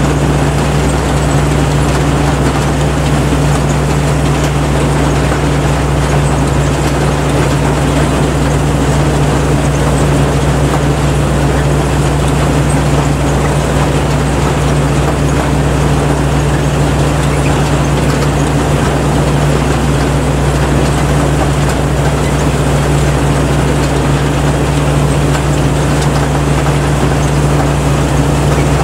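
Rice combine harvester running steadily, its engine and machinery a loud, unchanging drone.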